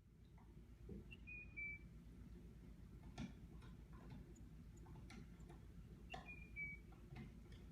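Faint scene at a wooden bird feeder: a small bird gives a short two-note call twice, a few seconds apart, over scattered light taps and clicks and a low steady hum.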